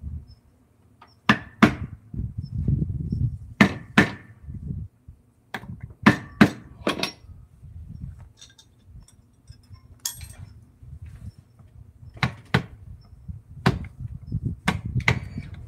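Hammer blows, about a dozen irregularly spaced strikes, some in quick pairs, each with a short metallic ring, amid low knocking and handling noise.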